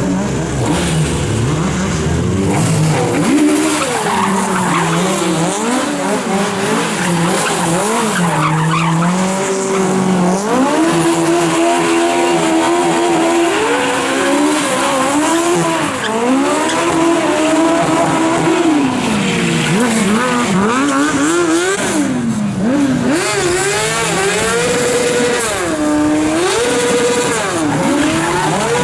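Car engine revving hard again and again, its pitch climbing and falling without a break, with tyre squeal.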